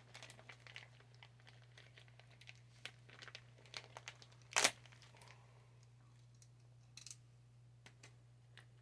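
Scattered small clicks and crinkling handling noises, with a sharper click about four and a half seconds in and another near seven seconds, over a steady low hum.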